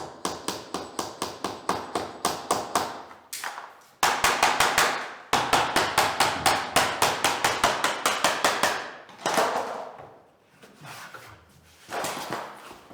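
Rapid runs of hammer taps, about six a second, knocking vinyl click planks together. The tapping stops and starts again a few times, then thins to a few softer knocks near the end.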